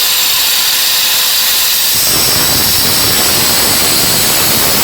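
Power cutting tool running steadily through the EGR tube, a loud, even hiss-like noise; it takes on more low rumble about two seconds in.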